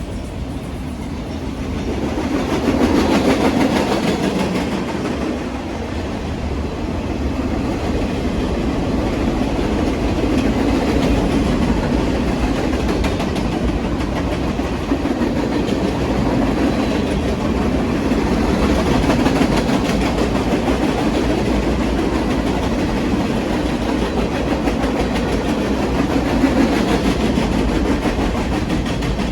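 Railroad cars rolling past on the track, wheels clattering continuously. The sound swells and eases a few times as the cars go by.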